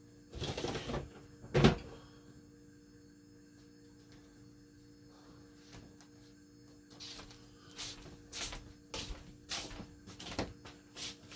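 Handling noises on a kitchen counter: a short rustle, a sharp knock about a second and a half in, then from about seven seconds a run of small clicks and knocks, over a faint steady hum.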